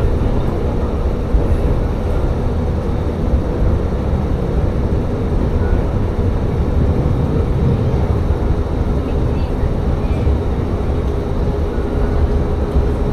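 Tsugaru Railway diesel railcar running between stations, heard from on board: a steady low rumble of engine and wheels on rail, with a steady whine that grows stronger near the end.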